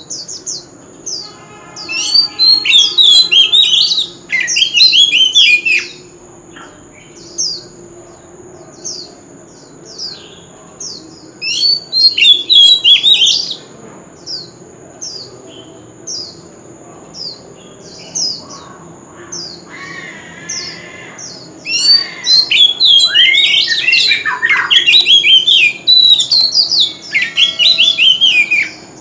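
Oriental magpie-robin singing: three loud spells of varied whistled phrases, between short high falling notes repeated about once a second.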